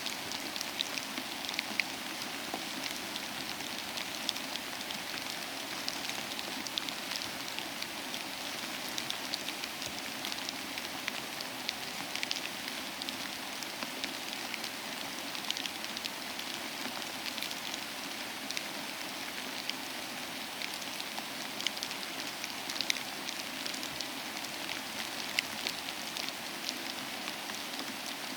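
Steady rainfall, an even hiss with many individual drops pattering and ticking on a surface.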